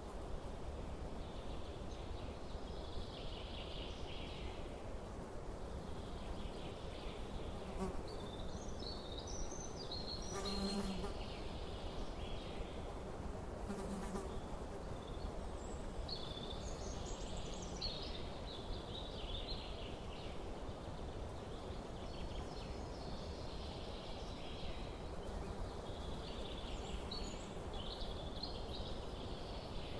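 Small birds chirping and twittering on and off, over a steady low background rumble.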